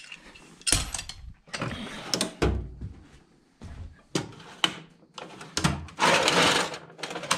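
Metal hand tools, wrenches among them, clinking and clattering irregularly as they are gathered and packed into a tool bag, with a longer rattling scrape about six seconds in.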